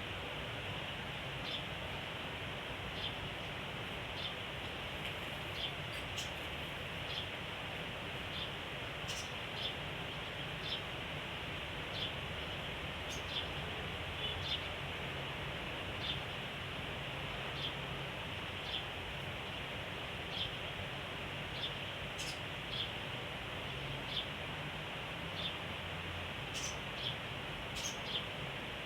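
A caged sogon songbird giving short, high single chirps about once a second, with a few sharper clicks among them, over a steady background hiss and low hum.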